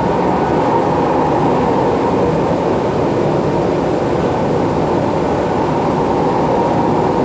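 Steady running noise of a ČKD Tatra RT8D5M light-rail car in motion, heard from inside the passenger cabin: wheels on the rails with a low hum.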